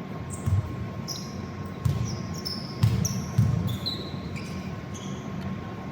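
A basketball bouncing on a court floor, a handful of irregular thumps, mixed with short high squeaks of sneakers on the floor during play.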